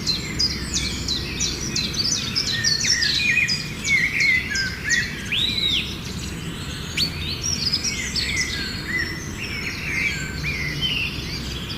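Several songbirds chirping and singing at once, a dense run of short, quick calls with an occasional rising-and-falling whistle, over a steady low rumble.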